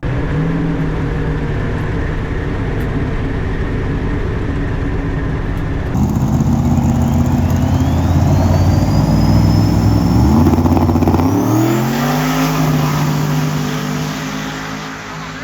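Drag-race car engine running loud and accelerating, with a thin high whine that rises steadily in pitch over several seconds. Near the end the engine's pitch sweeps upward as it revs.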